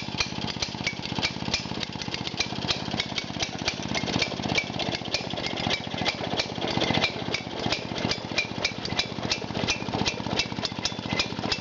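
Early Victa Rotomo two-stroke lawn mower engine running steadily, freshly rebuilt with new 0.020 oversize rings. A sharp regular ticking, about four or five times a second, sits over the fast firing.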